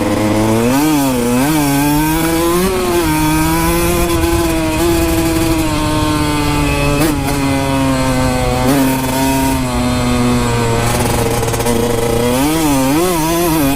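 Kawasaki KX 125 two-stroke dirt bike engine under riding: a few quick throttle blips, then held at a steady pitch that slowly sags for several seconds, then more quick blips near the end.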